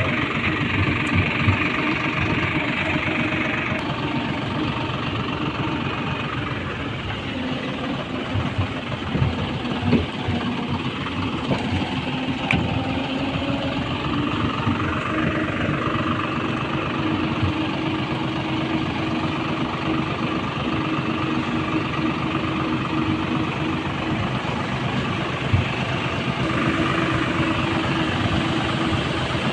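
Eicher 650 tractor's diesel engine running steadily, its humming note shifting in pitch a few times.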